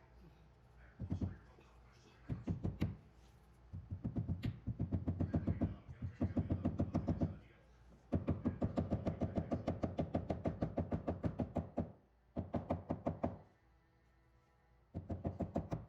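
Rapid, evenly spaced knocks in several bursts of one to four seconds, with short pauses between: the cabinet's backboard being fastened back on.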